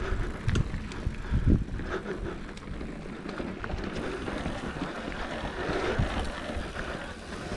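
Wind rushing over an action camera's microphone as a mountain bike rolls along a trail, with low knocks and thumps from the bike over bumps, the heaviest about one and a half seconds in.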